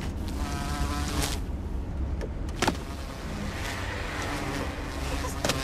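Car engine running steadily, heard from inside the cabin, with a brief whining buzz about half a second in and a few sharp clicks, one near the middle and one near the end.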